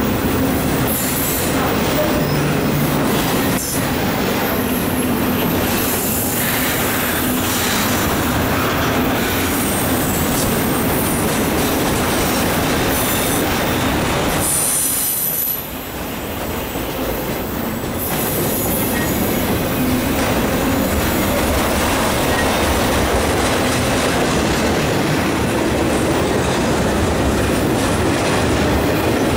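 Intermodal freight cars (double-stack container well cars and trailer cars) rolling past close by: steel wheels clattering steadily on the rails with thin, high wheel squeal at times. The noise dips briefly about halfway through, then carries on as loud as before.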